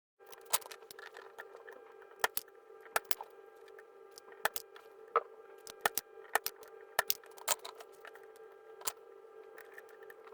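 A steady electrical buzz made of several fixed pitches, starting abruptly just after the start, with sharp clicks at irregular intervals, roughly one or two a second.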